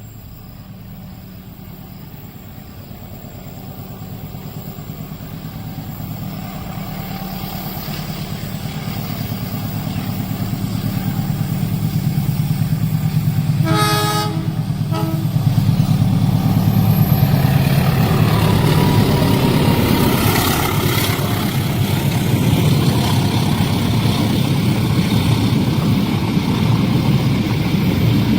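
Diesel-hauled passenger or freight train approaching a level crossing, its engine rumble growing steadily louder, with a long horn blast about halfway through followed by a short toot. The train then passes close by, its wheels on the rails making a loud continuous rush.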